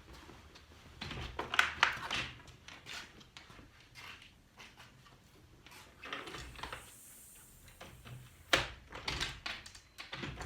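Irregular knocks, clunks and short scrapes of things being handled, loudest about one and a half seconds in and again near the end.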